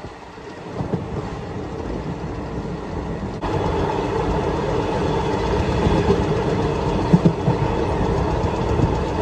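Passenger train running, the steady rumble and hum of the moving coach heard from inside it; it steps up suddenly louder about three and a half seconds in and then stays steady.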